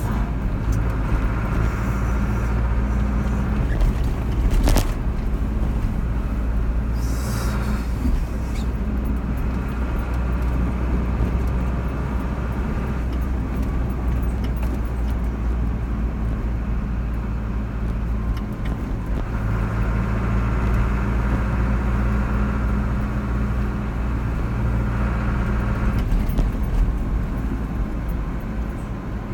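A car being driven: steady engine hum and tyre rumble on the road. The engine hum strengthens for several seconds about two-thirds of the way through, with a single click about five seconds in.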